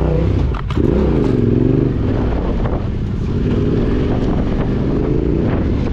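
Yamaha Ténéré 700's parallel-twin engine pulling under throttle off-road. The revs drop briefly about half a second in, then pick up again and rise and fall through the rest.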